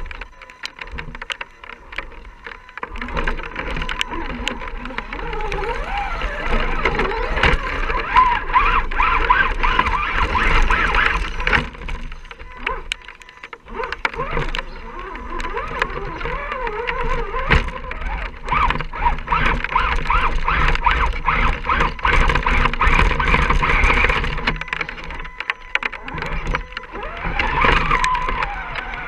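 Electric motor and gear drivetrain of a scale RC rock crawler whining, the pitch rising and falling with throttle, with scattered clicks and knocks of the truck on rock. It pauses briefly twice.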